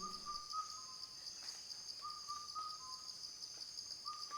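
Faint nature ambience: a bird repeating a short whistled phrase of a few notes about every two seconds, three times, over a steady high-pitched insect drone.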